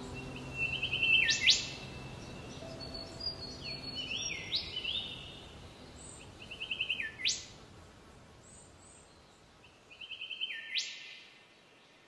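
Forest birds calling. One bird repeats the same phrase three times, each a quick run of short notes followed by a sharp sweep up and back down, and between the first two there are other short higher notes. The last of some soft music fades out in the first couple of seconds.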